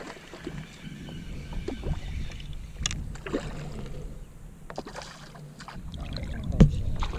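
Handling noise on a fishing kayak: scattered light knocks and rubbing on the hull, with one sharp knock about six and a half seconds in.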